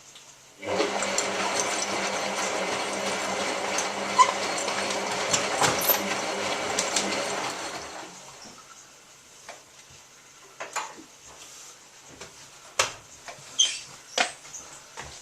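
Hotpoint 9534A washing machine with water rushing through it: a loud hiss over a low hum that starts suddenly and dies away after about seven seconds. A few scattered clicks and knocks follow.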